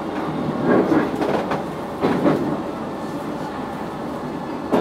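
Electric multiple-unit train, a converted 719-series car, running along the track, heard from inside: a steady rumble of wheels on rail with a few louder clacks as the wheels pass rail joints.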